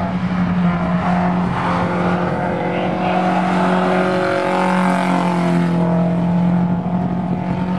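Race car engines running on the track, a steady loud drone that grows a little higher and brighter for a couple of seconds in the middle.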